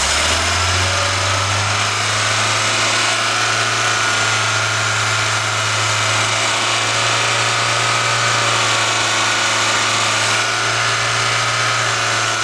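VAZ-2104 carburetted four-cylinder engine held at a steady fast idle of about 3500 rpm on full choke, with the choke flap held open, while the carburettor's cold-start device is set. The open carburettor, its air filter off, adds intake noise.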